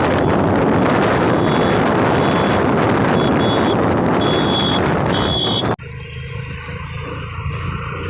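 Loud, steady road-vehicle noise with wind on the microphone, with a faint high whistle coming and going. It cuts off abruptly about two-thirds of the way in and gives way to a quieter, steady engine hum.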